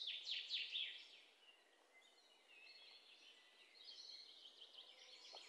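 Birds chirping faintly: a few quick falling chirps in the first second, then near silence until faint chirping starts again near the end.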